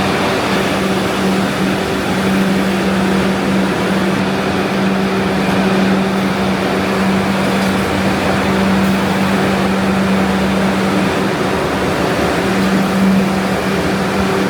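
Factory machinery running: a steady mechanical hum with a low drone and a constant hiss, from the retort sterilization area of a food plant. The drone eases briefly about two-thirds of the way through, then returns.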